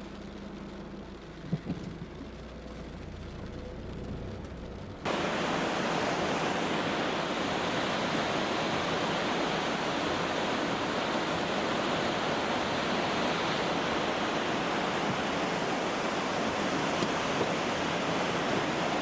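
Loud, steady rush of floodwater that starts abruptly about five seconds in. Before it there is a quieter low hum with a brief knock.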